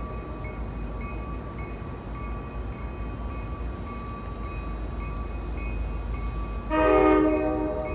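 Diesel switcher locomotive's horn sounding one short chord-like blast of about a second near the end. Throughout, a grade-crossing bell rings steadily about twice a second over a low rumble.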